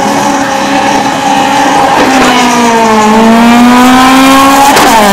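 Car engine at full throttle accelerating hard down a drag strip. It climbs in pitch and drops at an upshift about two seconds in, climbs again, and shifts once more near the end.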